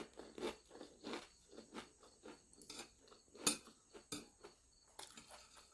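A person chewing food close to the microphone: a string of irregular wet smacks and small crunches, with a couple of louder bites about three and a half and four seconds in.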